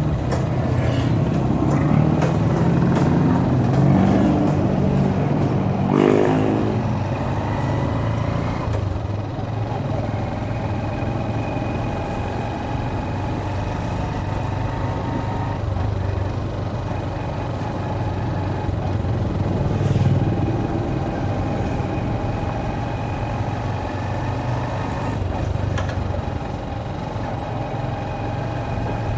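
Motorcycle engine running at low road speed, heard from the rider's seat, with the revs rising sharply about six seconds in and then holding a steady hum.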